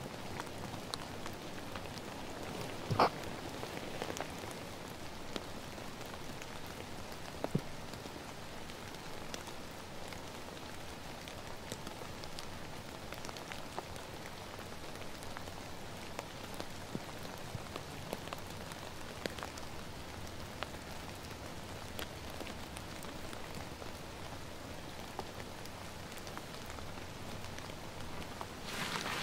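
Steady rain falling in a pine forest, with many scattered single drops ticking and two sharper clicks in the first eight seconds.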